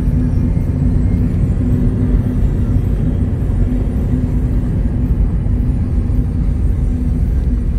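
2005 Mazda MX-5 Miata's four-cylinder engine running steadily under way, heard from the open cockpit with wind and road noise.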